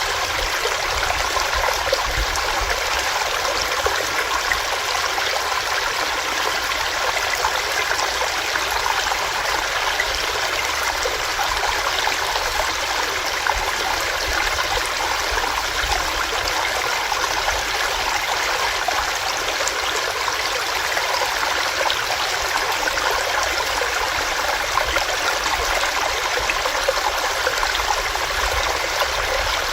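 Small stream running over rocks: a steady, even rush of water dotted with small splashes and gurgles.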